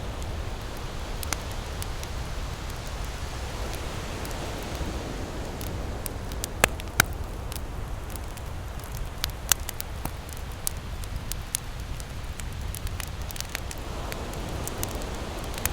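Campfire crackling with irregular sharp pops, two of the loudest close together about seven seconds in, over a steady rumble of ocean waves that swells and eases.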